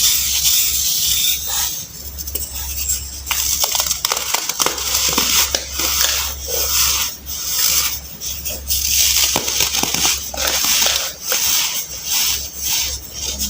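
Crunchy baking soda being crushed and crumbled, a run of crackling crunches in short bursts about every half second to a second.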